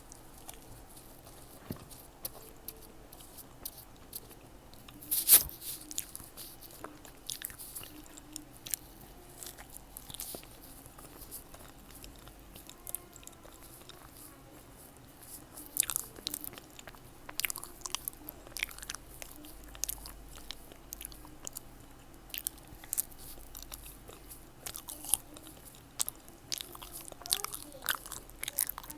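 Eating fresh fruit: crisp bites and chewing, with one loud sharp bite about five seconds in and a denser run of crunchy bites in the second half.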